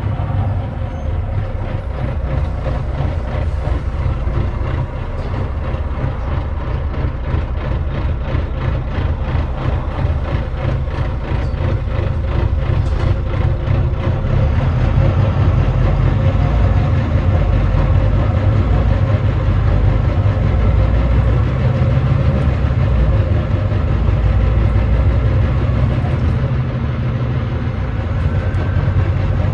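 Volvo D9B 9.3-litre six-cylinder diesel engine of a Volvo B9TL double-decker bus running steadily under way, with the engine getting louder about halfway through.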